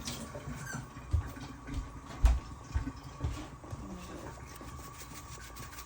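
Kitchen handling noises: a few dull knocks, the loudest about two seconds in, over a faint steady hum.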